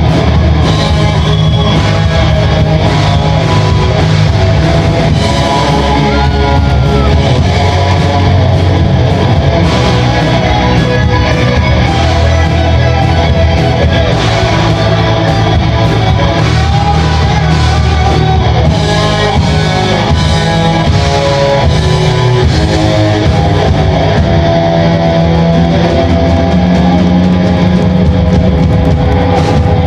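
A rock band playing loudly and without a break, with guitar to the fore over heavy bass.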